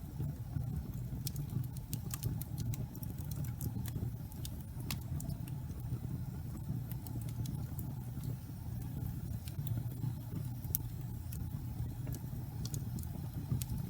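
Wood fire burning slowly in a fireplace: a steady low rumble of the flames with scattered sharp crackles and pops from the burning logs.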